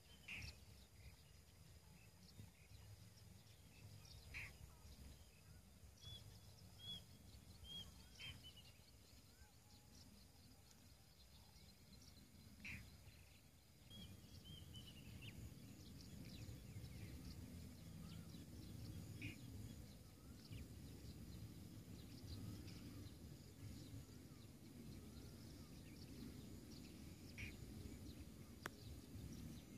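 Near silence: a few faint bird chirps over a faint low rumble that gets slightly louder about halfway through.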